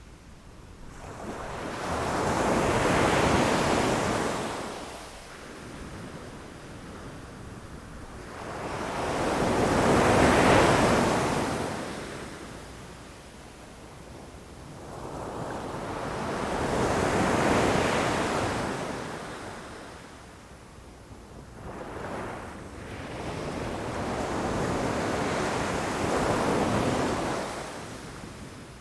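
Ocean waves breaking against rocks, four swells of surf each rising and falling over several seconds, with quieter lulls between them.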